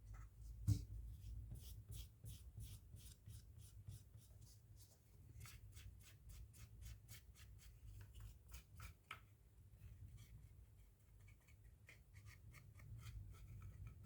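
Faint, quick scrubbing strokes, about three a second, coming in runs with short pauses, as old adhesive on a phone is cleaned with isopropyl alcohol. A sharp click comes about a second in.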